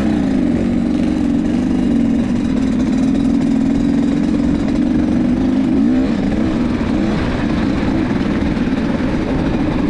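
Enduro dirt bike engine running loud and steady at an even speed, with a brief rise and fall in pitch about six seconds in.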